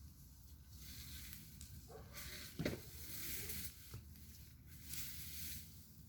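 Campfire burning: wood crackling and hissing in uneven surges, with one louder pop about two and a half seconds in.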